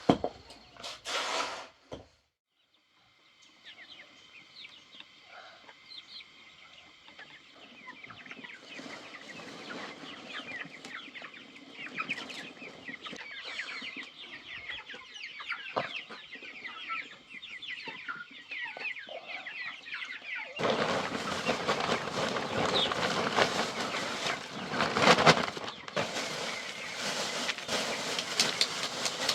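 Chickens clucking, with many short high peeps; the flock gets louder and busier about two-thirds of the way through.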